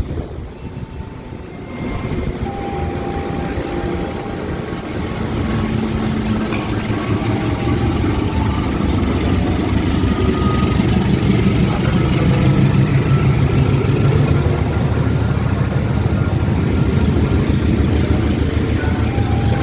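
Diesel-electric locomotive engine running with a deep rumble that grows steadily louder, as the train draws near.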